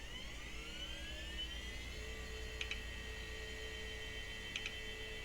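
Old Socket 4 PC's drives and fans spinning up: a whine rising in pitch that settles into a steady tone after about two seconds, with a lower steady hum and two brief ticks.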